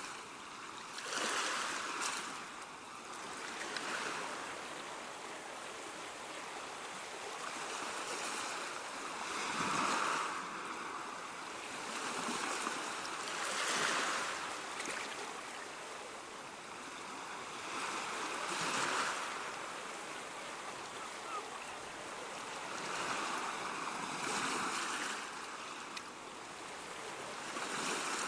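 Ocean waves washing onto a shore, a steady rushing that swells with each breaking wave every few seconds.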